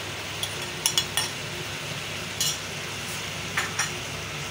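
Chicken frying in ghee, sizzling steadily in an aluminium pot, while a metal spoon clinks and scrapes against a plate a few times as chopped green chillies and curry leaves are pushed in, followed by stirring knocks in the pot.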